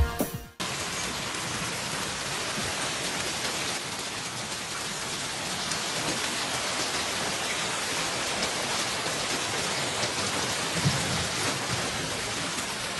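Hailstorm: hail and heavy rain pelting down in a steady hiss of many small impacts. A music track cuts off about half a second in.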